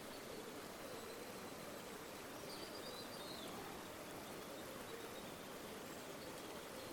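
River water flowing in a steady, even rush, with a faint bird call of a few short chirps about two and a half seconds in.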